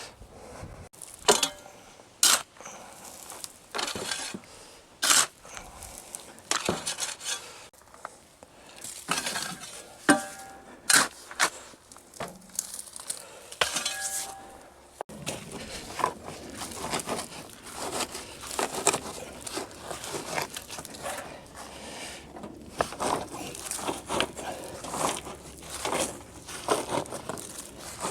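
Gravel being shoved and packed under a block by hand: irregular clinks and scrapes of stone.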